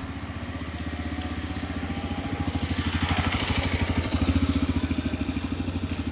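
A vehicle engine running with a fast, even firing pulse. It grows louder around the middle, with a swell of rushing noise.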